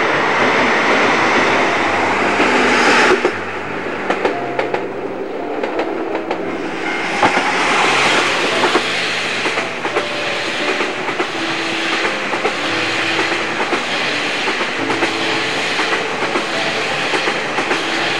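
A diesel train passing close at speed, its wheels clattering over the rail joints in a steady clickety-clack. The sound changes abruptly about three seconds in.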